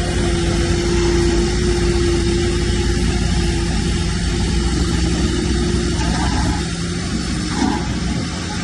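Bulldozer's diesel engine running steadily, a little quieter from about seven seconds in.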